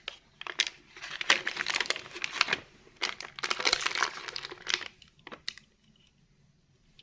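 Crinkling, rustling handling noise in several bursts with sharp clicks, stopping about five seconds in.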